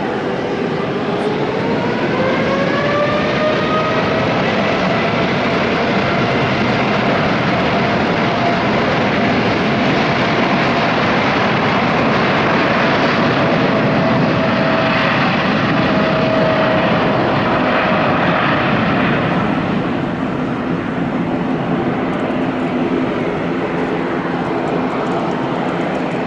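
Aircraft turbine engines spooling up with a rising whine, then running loud and steady, easing off about twenty seconds in.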